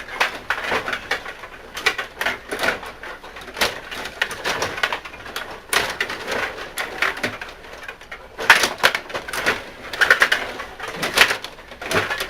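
Stiga rod hockey game in play: quick plastic clicks and rattles of the rods, players and puck. The clatter is busiest about eight and a half seconds in and again near the end.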